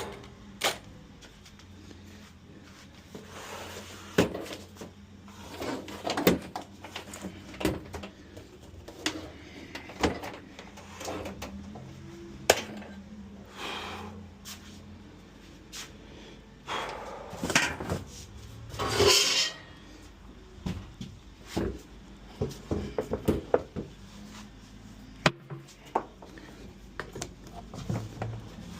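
Repair workshop handling sounds: scattered knocks, clicks and a few longer scrapes as tools and metal parts are moved and worked on, with the loudest scrape about two-thirds of the way through.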